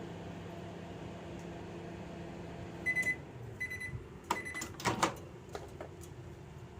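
Microwave oven running with a steady hum that stops about two and a half seconds in, followed by three short high beeps marking the end of the heating cycle. A few sharp clicks and knocks follow.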